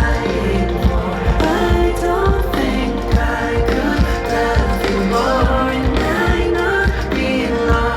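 Live pop song performance: a solo singer's voice over band accompaniment with a steady drum beat, played loud through the stage sound system.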